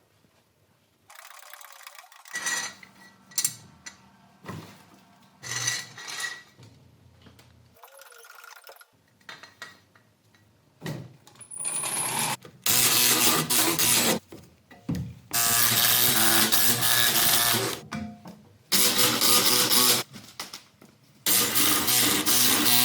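Workshop montage: scattered knocks and handling noises, then several loud bursts of a power tool running for one to three seconds at a time.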